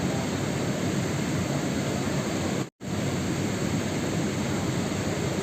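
Steady, even rain noise, like a continuous downpour, cutting out completely for a split second about two and a half seconds in before resuming unchanged.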